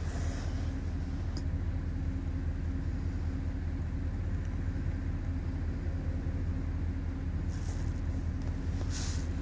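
Stretch limousine's engine running steadily, a low, even rumble with a hum heard inside the passenger cabin.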